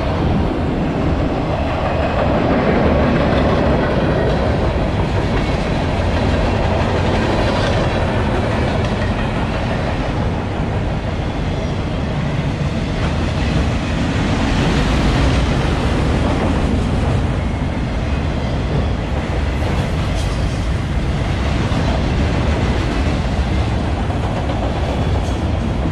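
Freight train of multilevel autorack cars rolling past close by: a steady, continuous rumble of steel wheels running on the rails.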